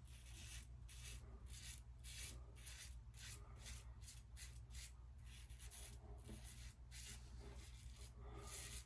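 Merkur 39C double-edge safety razor scraping through lathered stubble in short, faint strokes, about three a second.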